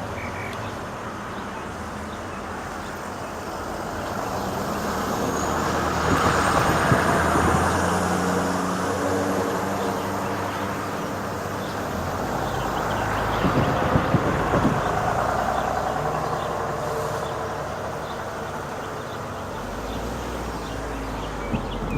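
Road traffic: motor vehicles passing by, with two louder passes about six and thirteen seconds in, the first with a thin rising whine.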